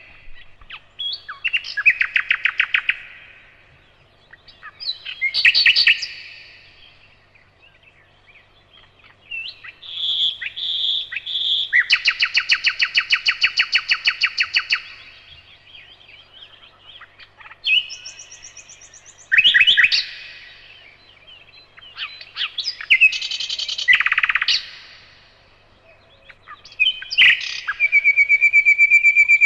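Nightingale singing in separate phrases with short pauses between them: whistles and fast runs of repeated notes, with a long fast series of repeated notes starting near the end.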